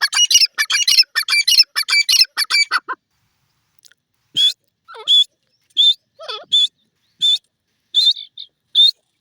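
Francolin (teetar) calling: a fast run of harsh, ringing notes for about three seconds, then, after a pause, short high call notes repeated about every 0.7 seconds, with a few fainter lower gliding notes in between.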